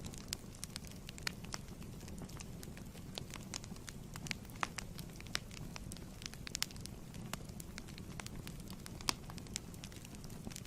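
Fireplace wood fire burning: a steady low rumble with frequent sharp crackles and pops at irregular intervals.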